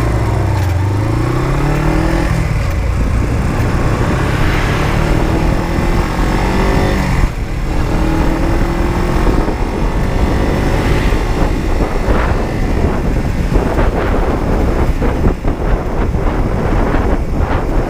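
Honda CB125T's 125 cc parallel-twin engine running under way, its pitch climbing as it accelerates, with a brief dip at a gear change about seven seconds in. Wind buffeting on the microphone grows over the engine in the last few seconds.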